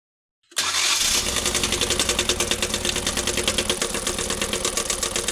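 Maruti Eeco's petrol engine running with a fast, even knock, cutting in abruptly about half a second in. This is the bad engine noise the mechanic traced to a bent, broken connecting rod that cracked the engine block.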